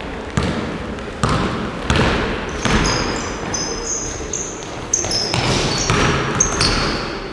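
Basketballs bouncing on a court floor, about eight irregular hits with echoing tails. Short high-pitched sneaker squeaks come through the middle of it.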